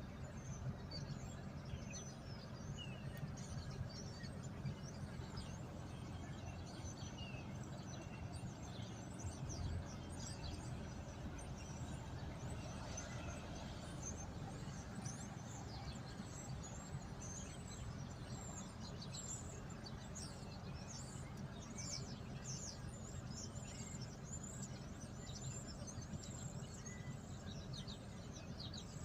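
Many small birds chirping at once, a dense run of short, high, falling chirps overlapping one another, over a steady low background rumble.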